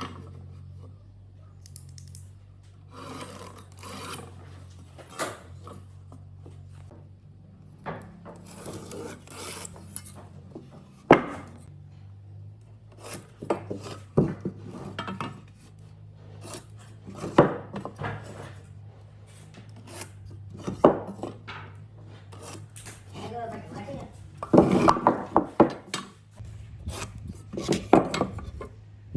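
A hand tool scraping and rubbing on wood in irregular strokes, with a few sharp knocks in between.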